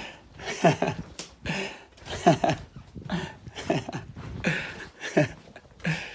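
A hand drum being struck with the hands in an uneven rhythm, roughly two strokes a second. Each stroke has a pitch that drops quickly, with a slap on top.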